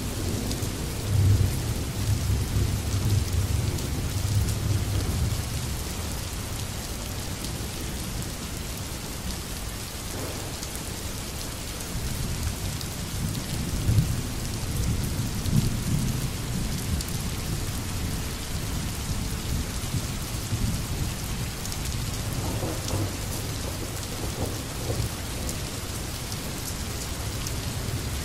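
Steady rain falling, with low rumbles of thunder underneath that swell a few times, strongest about a second in and again around the middle.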